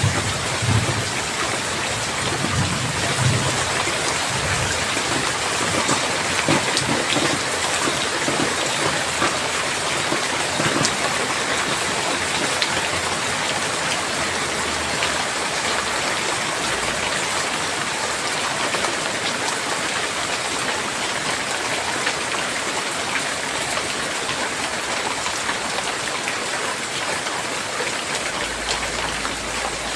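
Steady rain falling, with a low thunder rumble dying away in the first few seconds.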